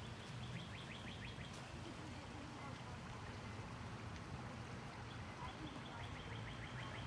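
A bird singing a fast trill of short, quickly repeated notes, heard twice: once near the start and again near the end, over a faint, steady low rumble.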